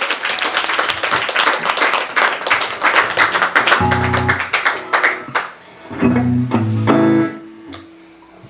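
Guitar strummed fast for about five seconds, then a few separate notes and chords picked out, dying away near the end.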